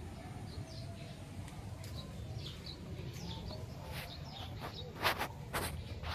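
Small birds chirping repeatedly over a steady low background rumble. Near the end come two short, sharp noises about half a second apart, the loudest sounds here.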